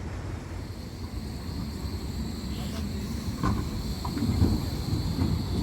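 Tram approaching on the street track, a low rumble growing louder with a steady high whine and wheel clicks over the rail joints from about halfway through.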